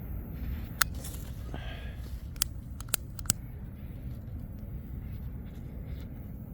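Four sharp clicks and snaps, spread over the first three and a half seconds, as a campfire of paper and sticks is being lit, over a steady low rumble of wind on the microphone.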